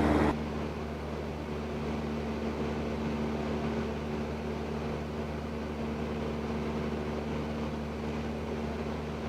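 Cessna 172N's four-cylinder piston engine and propeller droning steadily in the cockpit, an even low hum that drops a little in level just after the start.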